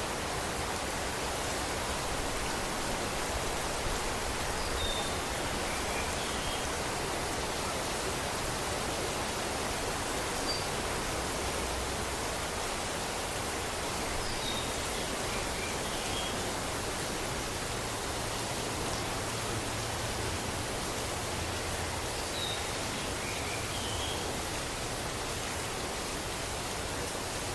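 Steady rain falling, an even hiss with no breaks. A few faint, short high chirps sound now and then over it.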